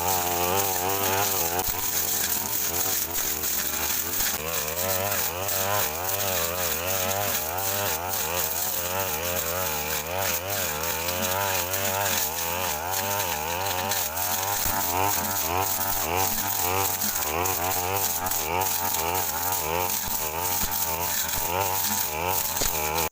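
Two-stroke brush cutter running under load, its engine pitch wavering up and down again and again as the blade swings through thick brush.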